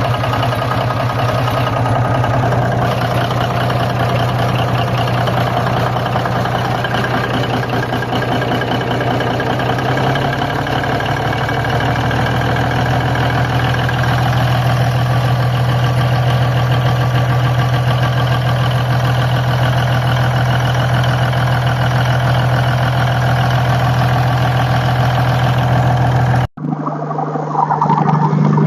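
Diesel engine idling steadily. Near the end the sound cuts off abruptly and an engine sound with a slightly different pitch takes over.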